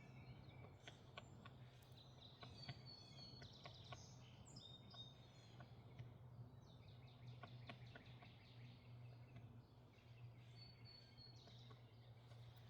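Faint songbirds chirping and whistling in scattered short calls over a low, steady hum.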